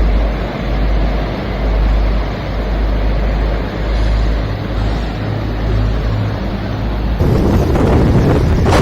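Sea waves washing against rocks with wind buffeting the microphone, a deep rumble that swells and eases. About seven seconds in the sound changes abruptly to a louder, brighter rush of wind and surf.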